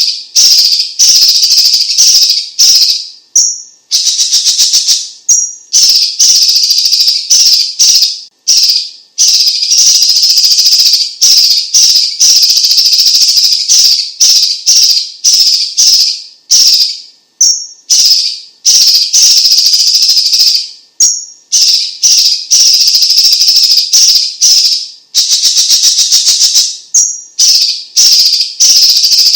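Cucak ijo cina (cucak cungkok), a leafbird, singing a loud, high-pitched song of rapid chattering notes, in runs of one to three seconds broken by short pauses.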